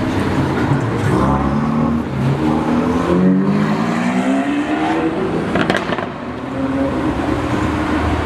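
Supercar engine accelerating, its pitch climbing steadily for a few seconds from about two seconds in, then rising again near the end.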